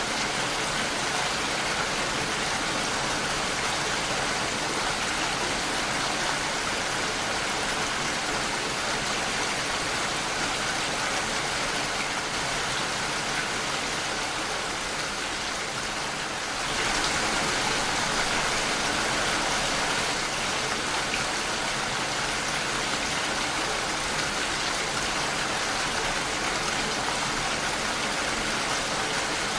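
Steady rain pattering against window glass, a dense even hiss of drops, easing slightly and then coming down heavier for a few seconds just past halfway.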